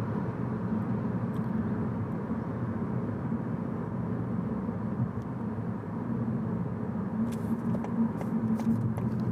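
Steady low road and engine rumble inside a moving car's cabin, with a few light clicks near the end.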